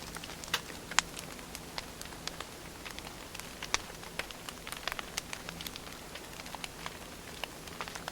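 Wood fire burning, crackling with irregular sharp pops and snaps over a steady soft hiss; the loudest pops come about one second in and again near the middle.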